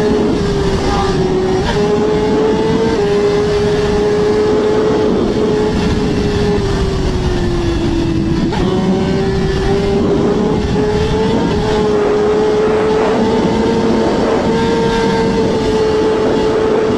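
Track motorcycle engine running at high speed, holding one high steady note with small jumps in pitch, sagging once about halfway through and climbing back, over a loud rushing noise.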